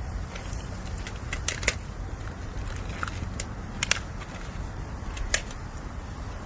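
Bamboo campfire crackling, with sharp, irregular pops from the burning bamboo, the loudest about a second and a half, four and five and a half seconds in, over a steady low rumble.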